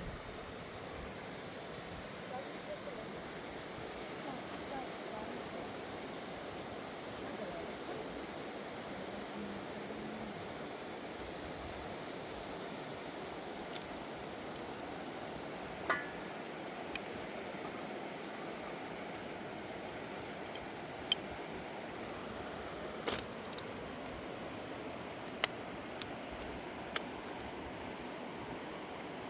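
Cricket chirping steadily, about two to three high-pitched chirps a second, falling silent for a few seconds past the middle and then starting again. A few faint clicks sound alongside.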